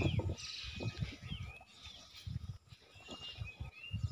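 Birds calling with short chirps and gliding whistles, including a buzzy trill in the first second and a longer held whistle about three seconds in. Under them run irregular low rumbles.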